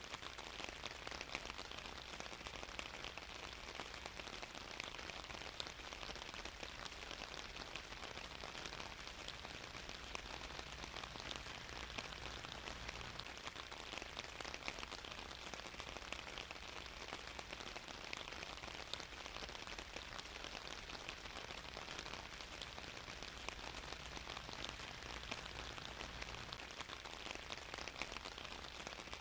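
Steady rain falling, with many small drops pattering on a surface and no letup.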